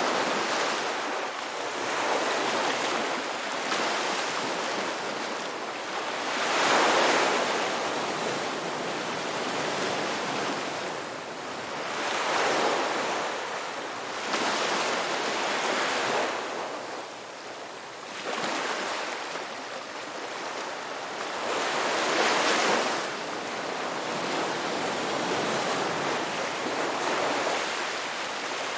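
Ocean waves breaking and washing up a beach. The surf swells and fades every few seconds, with the biggest waves about a quarter of the way in and again past the middle.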